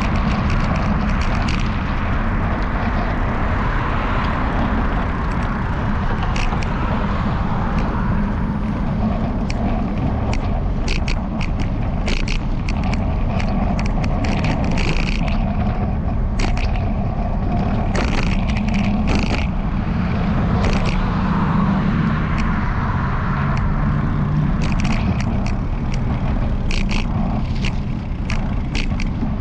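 Bicycle-mounted camera mount rattling in irregular sharp clicks over a steady low rumble from the ride.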